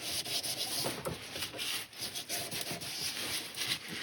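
A cloth rubbing over a freshly sanded laburnum gear knob, wiping it down with alcohol: an irregular scratchy rubbing in short strokes.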